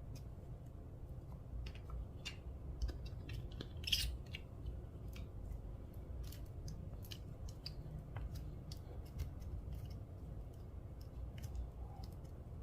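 Slime being mixed and squished, giving off irregular small sticky clicks and pops, with a louder crackle about four seconds in.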